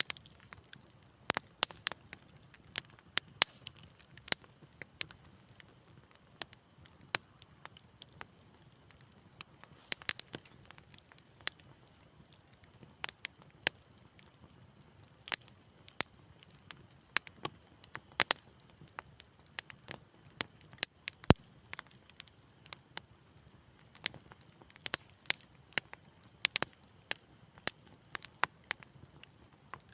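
Fire in a fireplace crackling: irregular sharp pops and snaps, sometimes several close together, over a faint steady low background.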